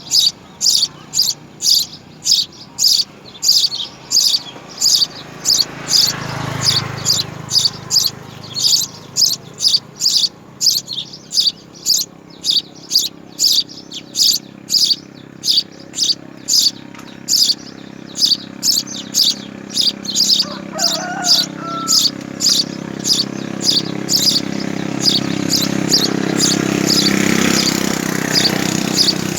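House sparrow chirping over and over in an even rhythm, about two sharp, high chirps a second. A low rumble swells about six seconds in and again near the end.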